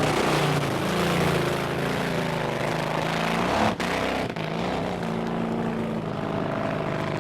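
Street roadster drag car's engine revving at the starting line, its pitch rising and falling with the throttle blips. After a brief break about four seconds in, it runs more steadily and a little quieter.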